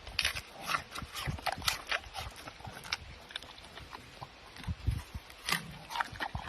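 An animal making irregular short noises: quick clicks and soft knocks, with a few low thumps.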